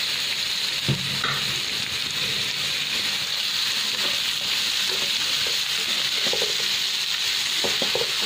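Diced potatoes and onion sizzling steadily in hot oil in a wok while a spatula stirs them, with a single knock against the pan about a second in.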